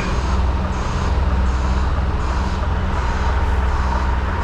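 Articulated lorry's diesel engine running steadily, a low even hum.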